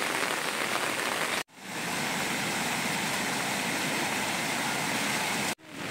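Steady rain falling on grass and leaves, a constant hiss that cuts out briefly twice.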